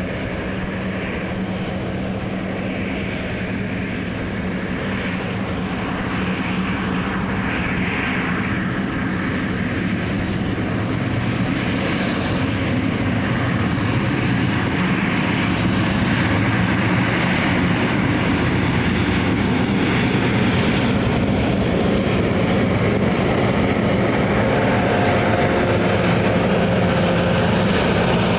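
Diesel locomotive engine working on a photo run-by, its steady drone growing gradually louder as the train comes closer, then holding.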